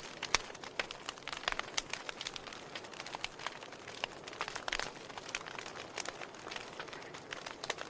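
Fire burning with a soft hiss and frequent irregular crackles and pops.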